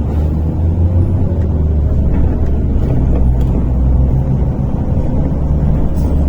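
MAZ-103 city bus heard from inside the cabin while riding: a steady low engine drone and road rumble, its pitch shifting slightly as the engine speed changes.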